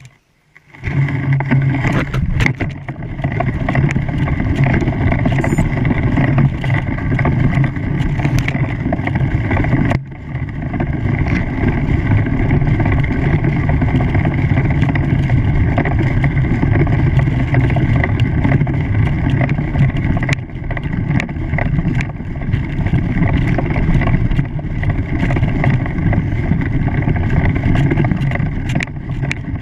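An engine running steadily under wind noise, starting abruptly about a second in.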